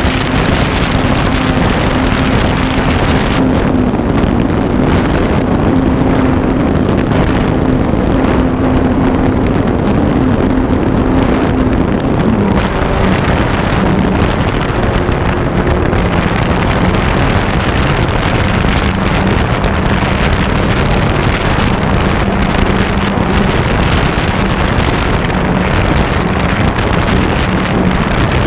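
Wind rushing over a camera mounted on a radio-controlled airplane in flight, with the plane's motor and propeller droning steadily; the drone's pitch drops a little about halfway through as the throttle eases.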